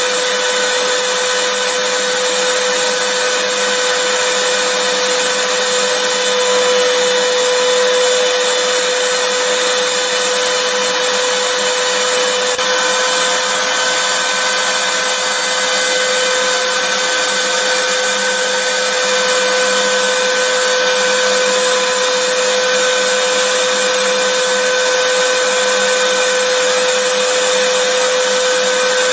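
Vacuum cleaner running steadily: an even rush of air with a constant motor whine over it, unchanging throughout.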